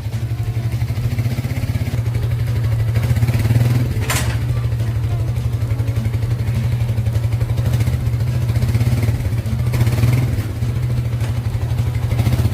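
Four-wheeler (ATV) engine running steadily at low speed, with one sharp knock about four seconds in.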